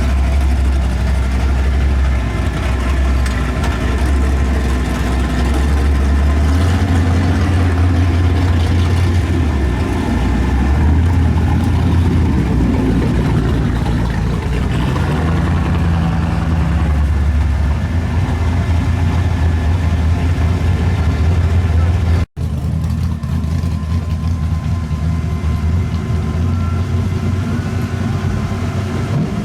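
Drag race car engine idling with a deep, steady note, its pitch stepping up and down a few times as it is blipped. The sound cuts out for an instant about 22 seconds in.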